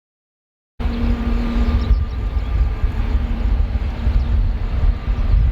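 Jet airliner engines running steadily at a distance, a continuous hum with a few steady tones over a heavy, fluctuating low rumble. It cuts in suddenly about a second in.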